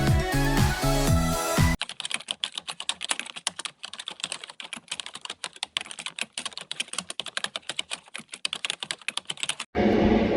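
Electronic background music with a beat cuts off suddenly about two seconds in, giving way to about eight seconds of rapid, irregular clicking like keyboard typing. Near the end, the steady noise of racing motorcycle engines cuts in suddenly.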